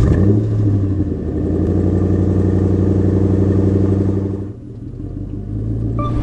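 Chevrolet Corvette C7's V8 engine idling steadily, its level dipping briefly about three-quarters of the way through and then building again.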